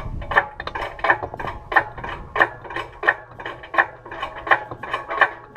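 Engine hoist being worked to lift an engine out of a car, clicking and clanking in a steady rhythm, a strong clank about every 0.7 s with lighter clicks between.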